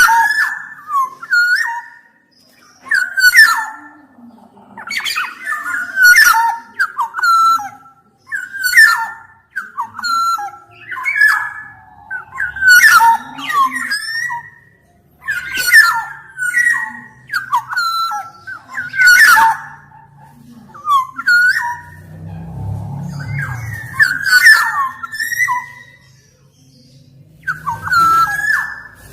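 Black-naped oriole singing: short phrases of fluted whistles with sharper notes mixed in, repeated every second or two, with a brief pause near the end.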